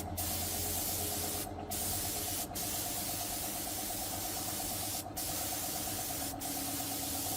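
Pressurised spray hissing steadily, broken by about five very short pauses, over the steady hum of a running motor.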